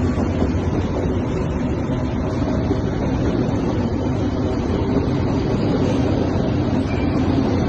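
Diesel locomotives of an empty grain train working uphill under load, a steady low engine drone.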